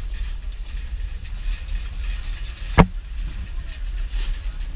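Passenger train coach rolling along the track, heard at an open window: a steady low rumble with two sharp knocks about two seconds apart, the second at the very end.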